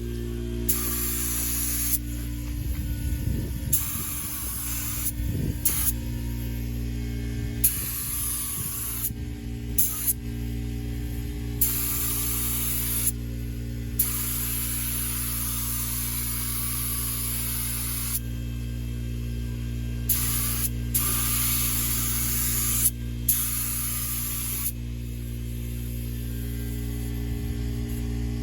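Compressed-air paint spray gun hissing in repeated bursts as the trigger is pulled and released, spraying paint, with an air compressor running steadily underneath.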